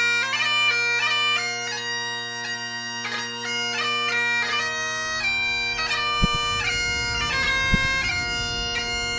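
Bagpipe tune: steady drones under a chanter melody that moves from note to note. From about halfway a low rumble joins it, with two brief knocks.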